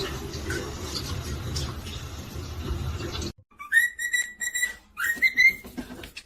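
A steady noisy hiss with scattered small clicks, then after an abrupt cut two whistled notes at about the same high pitch, each sliding up at its start and then held.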